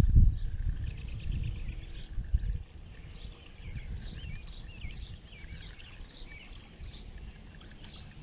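A low rumble on the microphone for the first two to three seconds, then birds singing: rapid chirps, then short whistled phrases.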